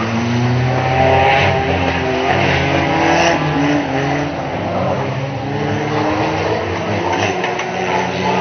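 Engines of several banger racing cars running and revving at once, at different pitches that rise and fall as the cars drive round the oval track.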